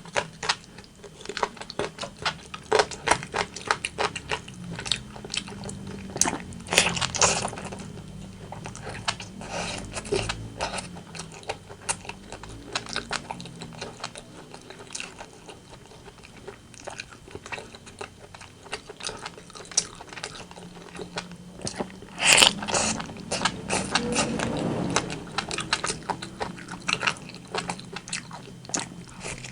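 Close-miked chewing and biting of rotisserie chicken: a steady run of wet mouth clicks and smacks, with a couple of louder crunchy bites.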